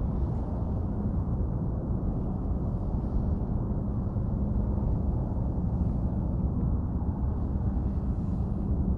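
Steady low rumble of wind buffeting the microphone on open water.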